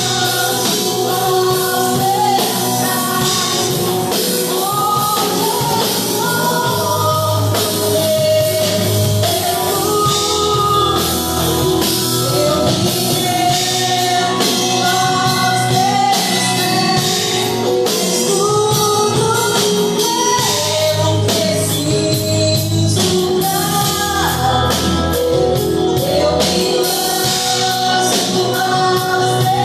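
Live gospel worship song: singing over a band with drum kit and cymbals keeping a steady beat.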